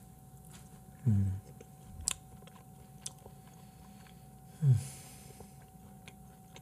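A man chewing a mouthful of raw beef, with faint clicks from wooden chopsticks. Two short low hums of the voice, each falling in pitch, come about a second in and near five seconds.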